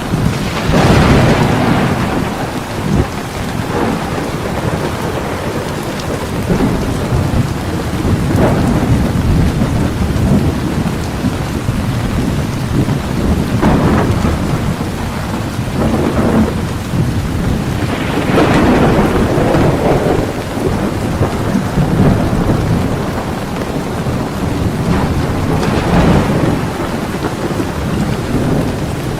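Heavy rain falling steadily, with rolls of thunder that swell and fade about six times.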